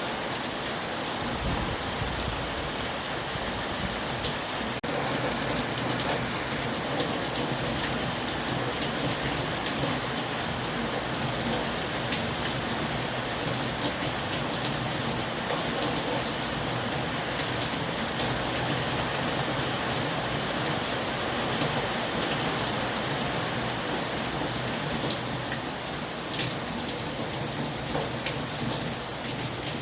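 Heavy rain falling steadily: a dense, even hiss of many drops striking a surface. The level steps up slightly about five seconds in.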